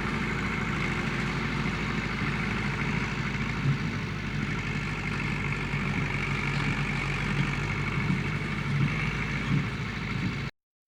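Massey Ferguson tractor engine running steadily at a constant speed, then cutting off abruptly near the end.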